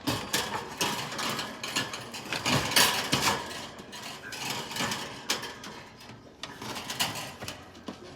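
A pet birdcage being cleaned by hand: rapid, irregular clicking, scraping and rattling of the cage's parts as droppings are scraped out.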